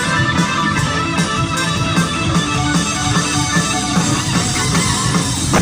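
Live rock band playing an instrumental break with guitars and a steady beat.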